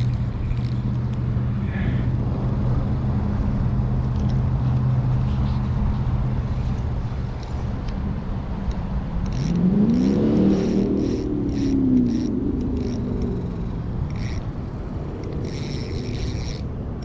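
A motor engine running with a steady low hum, then rising in pitch and easing back down about ten seconds in. Light clicks come and go in the later part.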